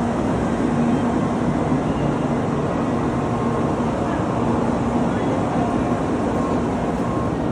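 Tokaido Shinkansen train running, a steady rumble with a faint hum that comes and goes.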